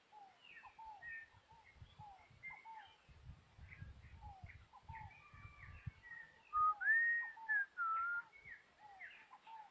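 Birds calling around a pond: a steady run of short, falling chirps with higher notes over them. A few loud, clear whistled notes rise and fall about two-thirds of the way through.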